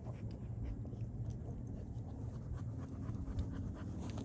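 A dog panting, with short irregular breaths over a steady low rumble.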